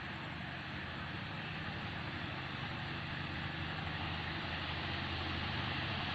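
GEA-class diesel-electric locomotive running with a steady engine drone, slowly growing louder as it approaches.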